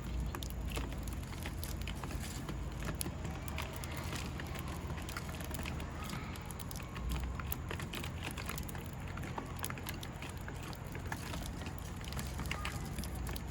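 Steady low outdoor rumble with a scatter of short ticks and faint chirps throughout.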